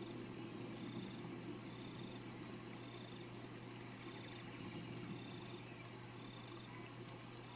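Steady rain hiss with a short high call repeated about once a second, and a quick run of three or four chirps about two and a half seconds in.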